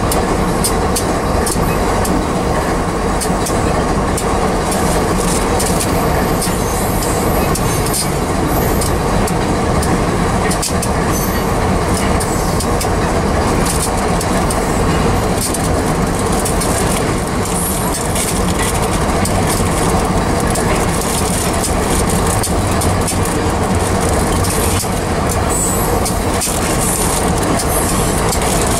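Loaded grain hopper cars of a freight train rolling past close by: a steady, loud rumble of steel wheels on rail, with a dense run of clicks as the wheels cross the rail joints.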